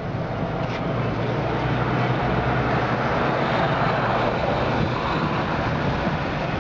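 Washing machine running: a steady, loud mechanical rumble with a low hum.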